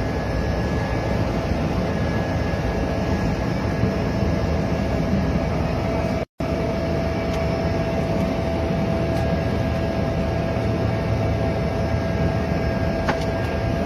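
Airliner engine noise heard from inside the cabin during landing: a loud, steady drone with a steady whine over it, cutting out for a split second about six seconds in.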